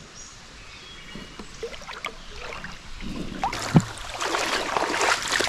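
Water sloshing and splashing around a person wading through a waist-deep creek, faint at first and growing louder and busier from about halfway through.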